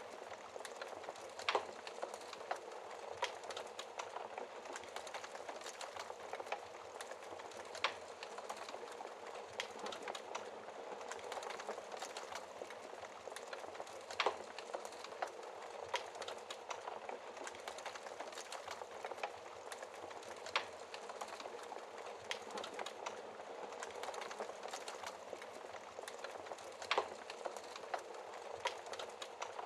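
Wood fire crackling in a fireplace: a steady hiss with frequent small snaps and a few louder pops every several seconds.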